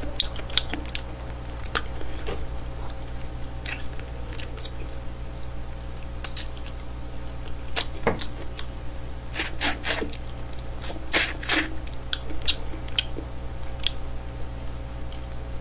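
Close-miked eating of smoked chicken: chewing, lip smacks and sticky clicks of fingers pulling meat off the bone, with a run of louder crackly smacks about two-thirds of the way through. A low steady hum runs underneath.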